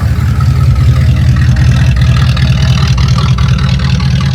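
A vehicle engine running, a loud steady low rumble.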